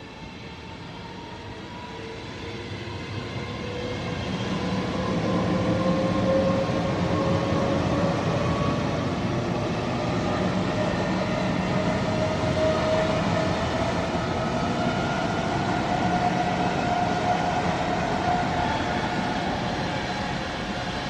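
Train running: a dense rumble and rattle that grows louder over the first five seconds or so and eases slightly near the end, with a whine that climbs slowly in pitch throughout.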